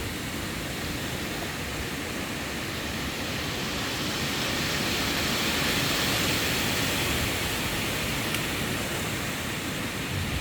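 Strong thunderstorm wind gust rushing through trees as a steady noise that builds to a peak about halfway through and eases off toward the end.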